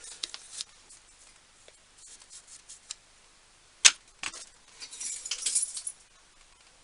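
Small metal parts being handled on a workbench: scattered light clinks and rattles, with one sharp knock about four seconds in.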